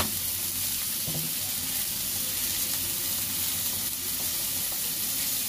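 Onion, capsicum and tomato sizzling steadily as they fry in oil in a steel kadhai, with one sharp click at the start.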